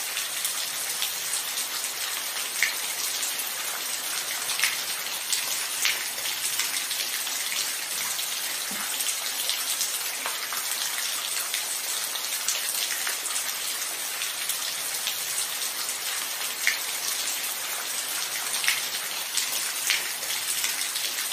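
Steady rain falling, a constant hiss with single close drops tapping out above it every second or two.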